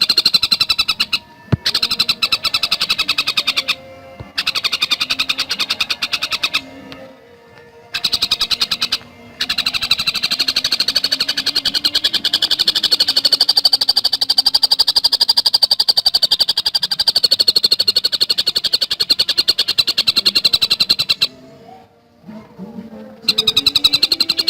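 Tengkek buto song: rapid, dense chattering in long runs of fast, even pulses, with several short breaks between runs.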